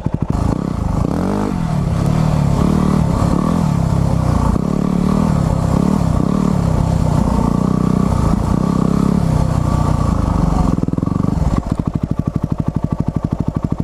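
Motorcycle engine idling, then revved and ridden with its pitch rising and falling over and over. It settles back to idle about two seconds before the end and cuts off at the very end.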